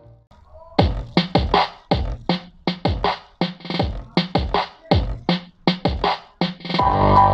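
Bass-heavy electronic music played through a homemade TIP3055/TIP2955 transistor mono amplifier driving a bare J Audio subwoofer. After a short near-quiet start, a rapid run of punchy bass hits drops in pitch two or three times a second, then a fuller, steady beat comes in near the end.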